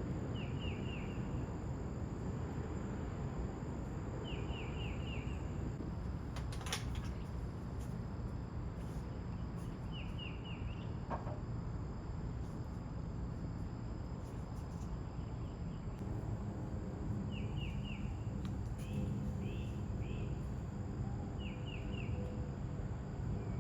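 Outdoor ambience: a bird calls in short bursts of three or four quick chirps, repeated every few seconds, over a steady low background noise and a faint steady high drone.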